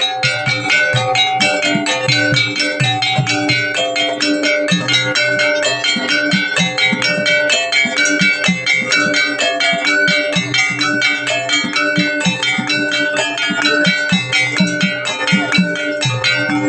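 Gamelan music for a jaranan kepang dance: bronze metallophones strike a fast, continuous run of ringing notes over low drum strokes.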